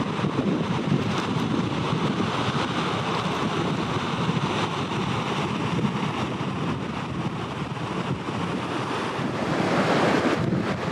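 Steady rushing of a river swollen by typhoon rain, with wind buffeting the microphone; it swells a little near the end.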